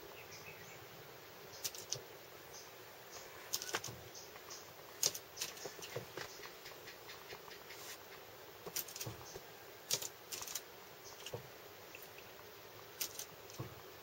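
Irregular sharp taps and flutters, in small clusters a second or two apart, as a Philippine pied fantail pecks and flaps at its own reflection on the car's glass window.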